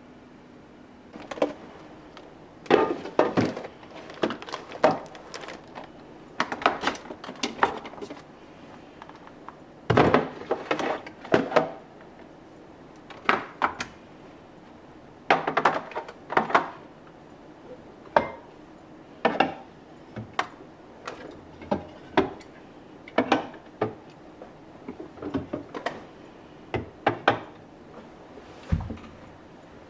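Kitchen containers and items being handled and set down while a refrigerator is organized: irregular clacks, knocks and light clatter in clusters.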